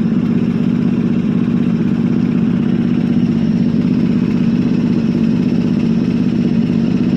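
1976 Ford LTD's 351M V8 idling steadily through its exhaust, running again after 35 years of sitting.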